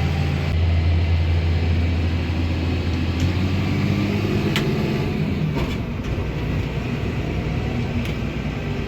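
Tractor engine running steadily under the cab, with a deep, even hum. About five seconds in, the even note gives way to a rougher rattling, with a few sharp clicks and knocks from the machinery.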